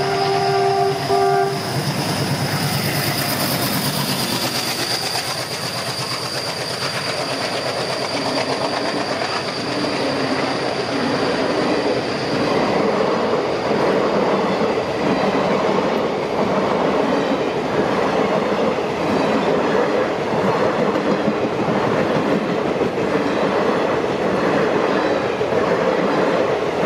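Indian passenger train passing close by: the locomotive's horn ends about a second and a half in, and a high steady whine fades out over the first several seconds. Then the loud rumble and rhythmic wheel clatter of the coaches going by.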